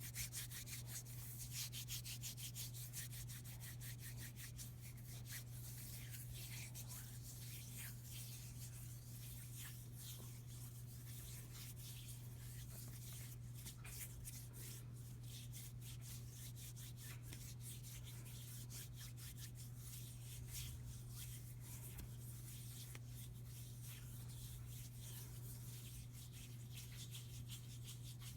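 Hands rubbing close to the microphone: a fast, continuous dry swishing of skin, busiest at the start and again around the middle, over a steady low hum.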